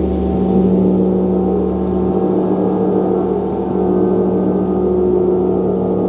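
Gong being played continuously: a sustained, shimmering wash of many overlapping tones with a strong low hum, steady in loudness with no distinct strikes standing out.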